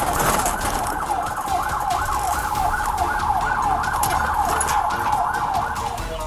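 Police car siren in a fast up-and-down yelp, its pitch sweeping about twice a second, over the low rumble of the moving patrol car.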